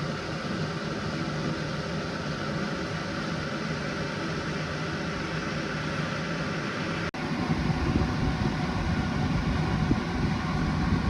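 Steady mechanical hum and noise, with a short break about seven seconds in, after which the low end is louder and rougher.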